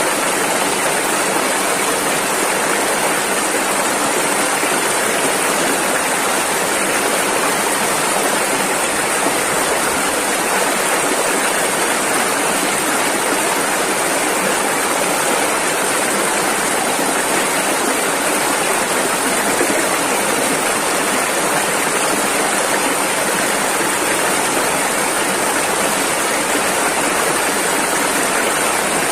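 Rushing river water, a steady even roar of rapids with no breaks or changes.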